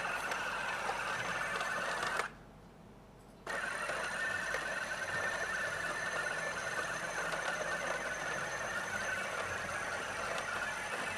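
Roomba robot vacuum running with a steady whirring hum of its motors and brushes; it cuts out about two seconds in and starts up again a second later.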